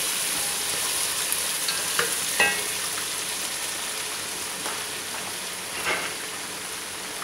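Sliced onions and ginger-garlic paste sizzling in hot oil in a pot, stirred with a wooden spatula that knocks against the pot a few times, most sharply about two and a half seconds in.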